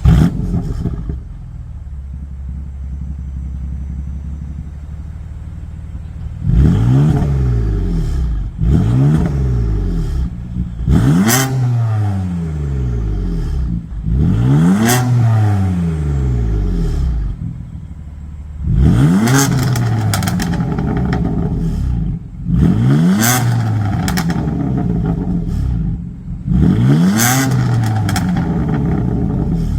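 BMW F80 M3's twin-turbo inline-six with an aftermarket downpipe, idling for about six seconds and then blipped about seven times, each rev rising and falling back to idle, with short sharp cracks from the exhaust after several of the peaks.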